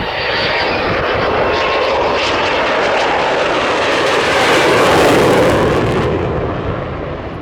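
An aircraft making a low pass: its engine noise swells to a peak about five seconds in, then fades as it moves away.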